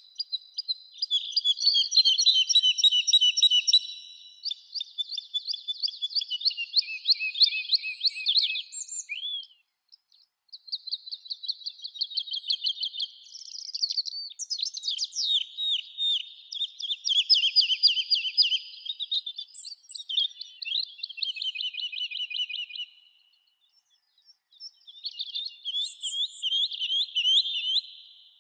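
Small songbirds singing long, rapid trilling phrases of several seconds each, high-pitched, with short pauses about ten seconds in and near the end.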